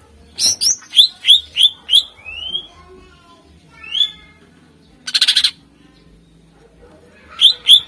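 Greater green leafbird (cucak ijo) singing loudly: a quick run of sharp, rising whistled notes, a lone note at about four seconds, a short harsh rattle about a second later, then another quick run of rising notes near the end.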